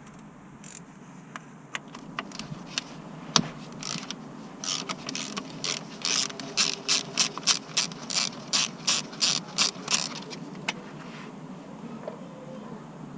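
Ratchet wrench worked back and forth, a run of clicking strokes about three a second that stops around ten seconds in, with scattered clicks and knocks of tools before it.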